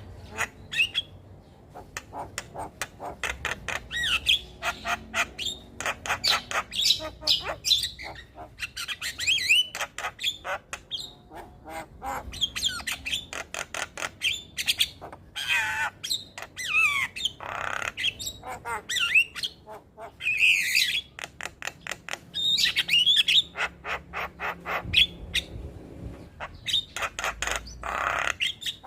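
Javan myna (jalak kebo) in full song: a continuous, rapid run of harsh squawks, sharp clicks and whistled gliding notes.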